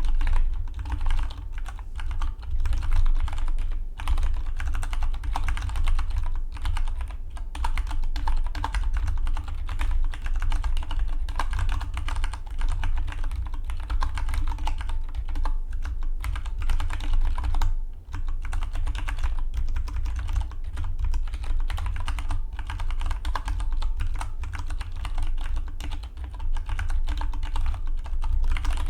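Fast continuous typing on a Dygma Defy split mechanical keyboard, a dense run of key clicks with short pauses about four seconds in and about eighteen seconds in, over a steady low rumble.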